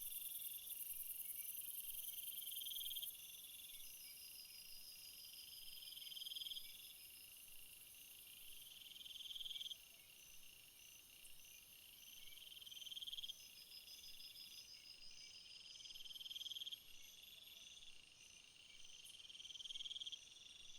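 Insects chirring in a summer field: a trill that swells and then cuts off sharply every three to four seconds, over a faint, steady layer of higher, pulsed chirps.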